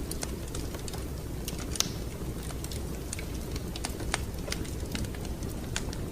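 Wood fire crackling in a fireplace: irregular sharp pops and snaps over a steady low rumble of burning, with the loudest pop about two seconds in.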